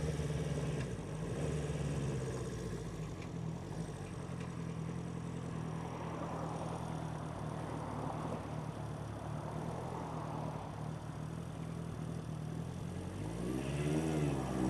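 1976 Honda 400/4's air-cooled inline four-cylinder engine running steadily while the motorcycle is ridden, then rising in pitch as it accelerates near the end.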